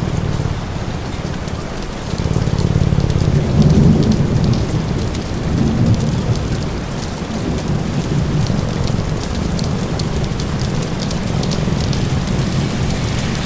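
Steady rain falling, with a deep low rumble that swells a couple of seconds in and eases off again, and scattered sharp ticks over the top.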